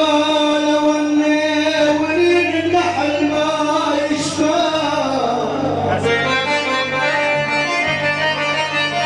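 Live Arabic party music: a sustained, reedy melody on an accordion-like keyed instrument over a steady bass line, with a long sliding fall in pitch about halfway through.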